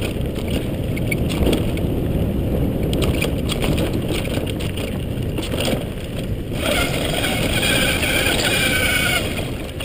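Electric mountain bike rolling downhill on a dirt trail: steady rumbling tyre and wind noise with rattling knocks from the bike over the rough ground. Near the end a high-pitched whine joins in for a couple of seconds.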